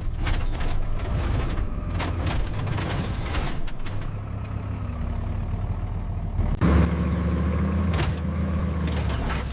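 Heavy vehicle engine running with a low rumble, with scattered metallic knocks and clanks. About two-thirds of the way through, a steadier, higher engine note comes in.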